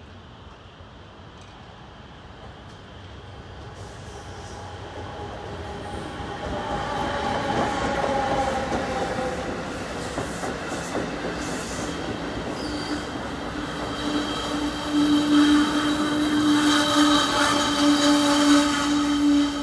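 Passenger train coming into the station: its rumble builds to a peak about seven seconds in as the front passes, then the cars roll by with a steady wheel squeal from about twelve seconds in.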